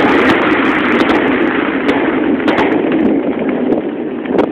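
Fireworks display: a few sharp pops scattered over a dense, steady rush of noise that eases off near the end.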